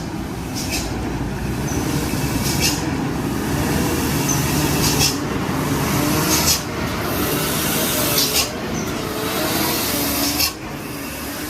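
Heavy truck engine running under load, with short sharp hisses of air every second or two. The engine sound drops off sharply near the end.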